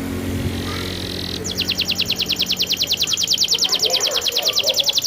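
Domestic canary singing a rolling trill: a rapid, even run of high notes, about twelve a second, starting about a second and a half in.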